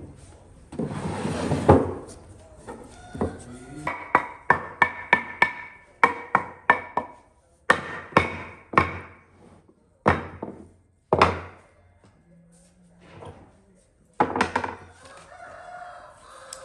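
A series of sharp ringing strikes, about two a second, each with a brief ring, stopping for a while and then a few more near the end; typical of hammer blows in woodworking.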